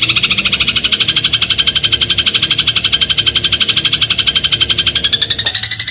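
Eurasian tree sparrow giving its 'crot' call, a loud, fast, even rattle of about fifteen notes a second that rises in pitch near the end.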